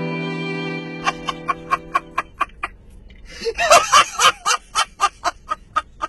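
A held music chord fading out, overlapped by a run of rapid laughter in short bursts, about four a second, with a louder flurry a little past the middle.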